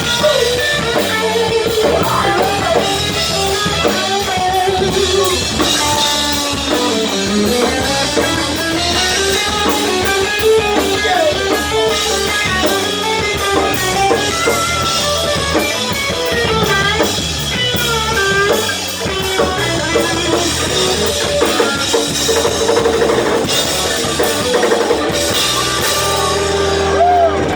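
Live rock band playing an instrumental passage with electric guitar lead and drum kit, amplified through a PA; the music ends abruptly at the close.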